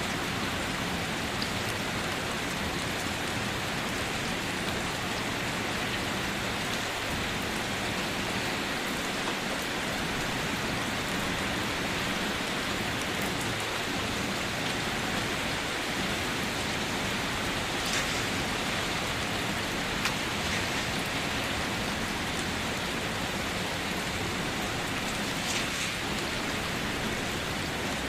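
Steady rain falling, an even hiss of drops on surfaces, with a few brief louder drips standing out now and then.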